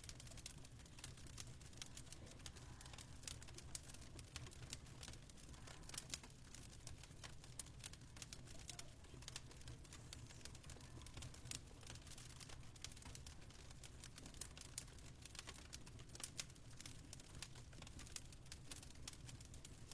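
Fireplace fire crackling: faint, irregular snaps and pops of varying strength over a low, steady rumble.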